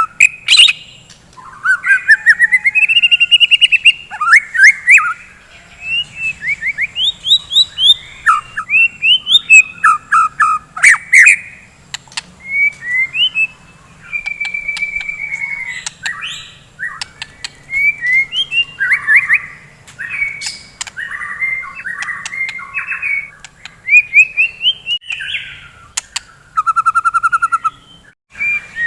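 White-rumped shama (murai batu) singing a loud, continuous, varied song of whistled phrases, rapid trills and harsh rattles, with a buzzy rattling phrase near the end.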